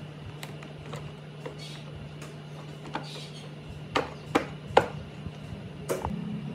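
Scattered sharp clicks and knocks, three louder ones close together about four seconds in, over a steady low hum.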